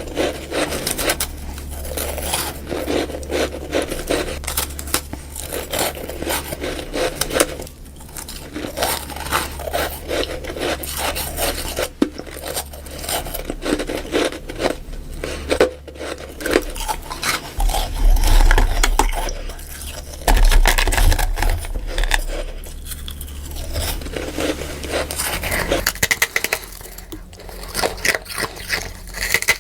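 Close-miked biting and chewing of freezer frost: a dense, irregular run of crisp crunches and scrapes, with deep low thumps about two-thirds of the way through.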